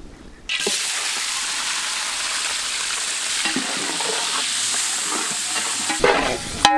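Raw prawns dropped into hot oil in a large metal pot, sizzling and frying loudly from about half a second in as they are stirred with a ladle. A short ringing clink comes near the end.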